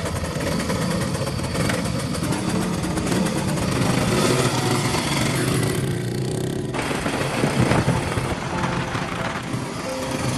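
Restored motorcycle engine running, with a rapid, dense firing sound; its note changes about seven seconds in.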